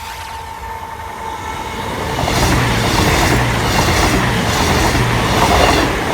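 CrossCountry Voyager diesel multiple unit passing at speed: a rising rush of wheels and underfloor diesel engines that grows loud about two seconds in, with a regular clatter of wheels over the track every half second or so, easing off near the end.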